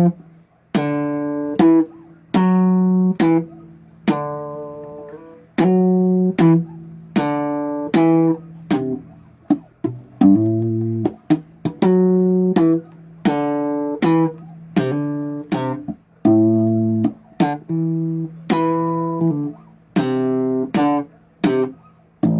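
Solo bass guitar playing a repeating riff: single plucked notes, each struck sharply and left to ring and fade before the next, with the phrase coming round again and again.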